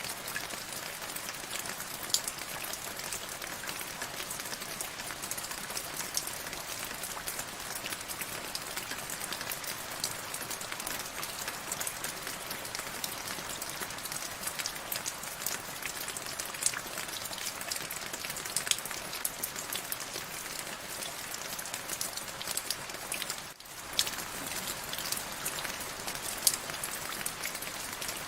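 Steady rain falling, a continuous hiss with many individual drops ticking and pattering on a surface. It drops out for a split second about two-thirds of the way through.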